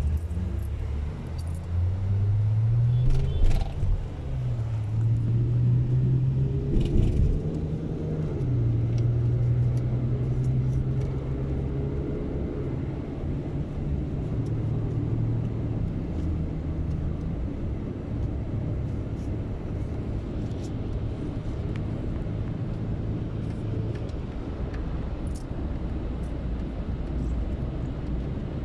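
Car engine and road rumble. The engine note climbs, drops and climbs again in the first few seconds as the car speeds up and slows, then runs fairly steadily.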